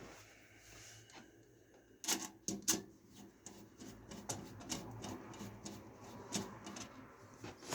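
Irregular sharp clicks, taps and scraping of small metal and plastic parts as a piece is worked loose from a PC case, with a louder knock at the end.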